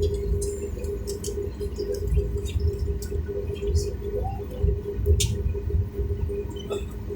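Steady low hum of an airliner cabin before takeoff, with a constant mid-pitched tone and scattered light clicks and taps.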